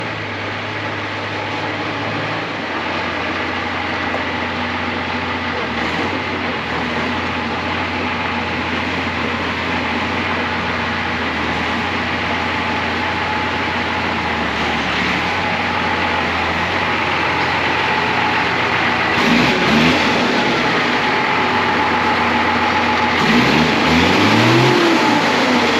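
Deuce-and-a-half truck's turbocharged multifuel diesel engine idling steadily on its original turbo, then revved twice near the end, the pitch rising and falling each time.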